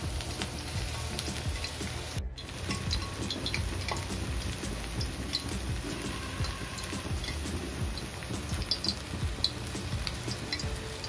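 Dry potato filling of mashed boiled potato, onion and spices frying and being stirred in a nonstick pan: a steady sizzle with many small crackles. The sound cuts out briefly about two seconds in.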